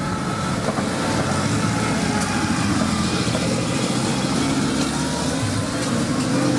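A car engine running steadily, with outdoor background noise.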